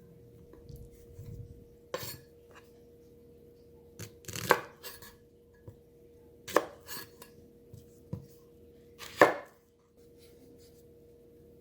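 Knife slicing through a peeled plantain and knocking on a cutting board: a few sharp knocks two to three seconds apart, with lighter taps between them.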